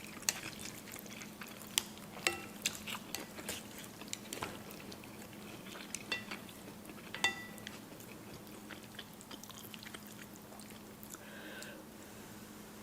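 Utensils clicking and clinking against a bowl while eating noodles, a few strikes ringing briefly, with chewing. A steady hum runs underneath.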